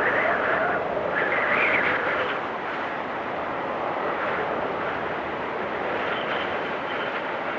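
Blizzard wind blowing steadily, swelling in two whistling gusts in the first couple of seconds and then settling into an even rush.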